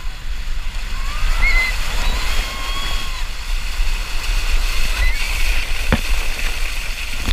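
Water splashing and rushing at a water-park slide, with distant voices calling out, and a sharp click about six seconds in.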